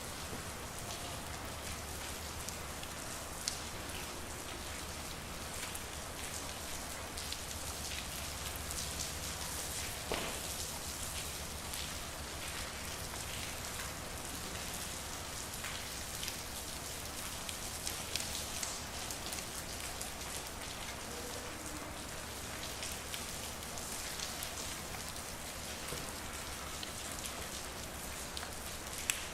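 Steady rain falling on a street, with many individual drips and splashes ticking through it and a few sharper ones, the loudest about ten seconds in. A faint low hum runs underneath.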